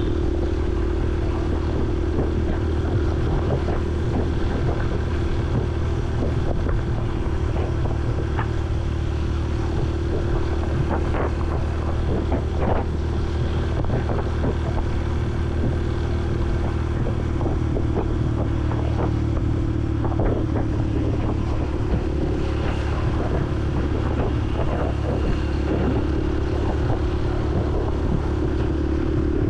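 Honda CRF150L's single-cylinder four-stroke engine running at a fairly steady speed while riding, with wind buffeting the microphone and scattered short clicks.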